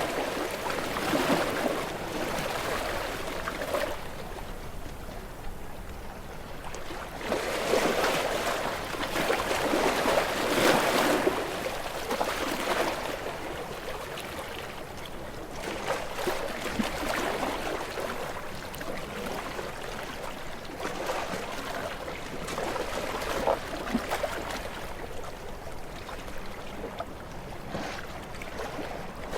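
Small waves washing onto a beach and drawing back, swelling and fading every few seconds.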